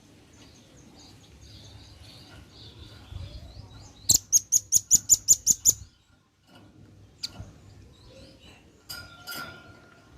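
Velvet-fronted nuthatch calling: soft high chirps, then a loud, rapid run of about ten sharp notes lasting under two seconds, followed by a few scattered single calls.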